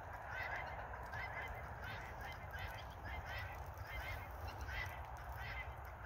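Faint bird calls repeating about twice a second over a steady outdoor hiss.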